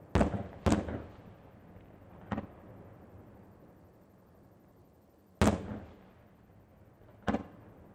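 Aerial firework shells bursting: five bangs, two in quick succession at the start, a fainter one about two seconds in, the loudest about five and a half seconds in and a last one near the end, each trailing off in a short echo.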